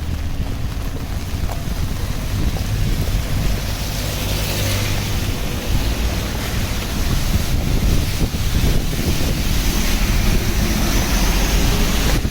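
Steady rain noise on a wet street with wind buffeting the microphone, giving a low rumble under a hiss. The hiss swells about four seconds in and again through the second half.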